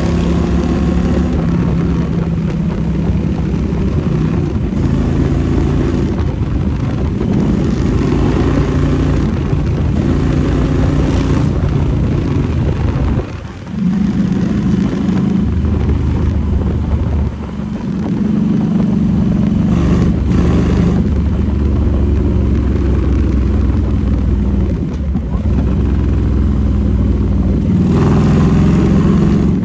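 Motorcycle engine running while riding, with wind rushing over the microphone. The engine note holds steady and shifts in steps, with short drops in loudness about 13 and 17 seconds in.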